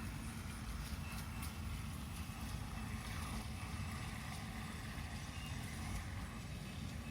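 Wind buffeting the microphone: a steady, fluttering low rumble with a hiss above it.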